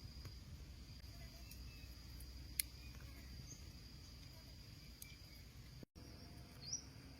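Faint outdoor ambience: a steady high thin insect trill over a low rumble. A single sharp click comes about two and a half seconds in, the sound drops out briefly near six seconds, and a short rising chirp comes near the end.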